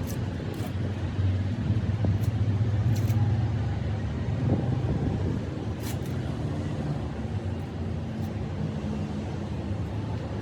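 A machine running steadily with a low hum, a little louder a second or two in, and a few short clicks or knocks on top.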